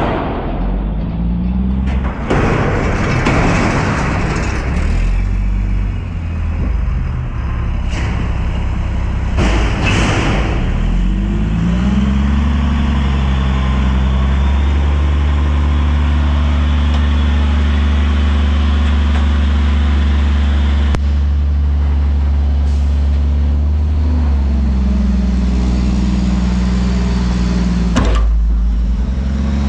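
Front-loader garbage truck's diesel engine running, revving up about twelve seconds in, holding the higher speed for some twelve seconds, then settling back near the end, the raised revs typical of driving the truck's hydraulics. Several short, loud noisy bursts come in the first ten seconds and once more near the end.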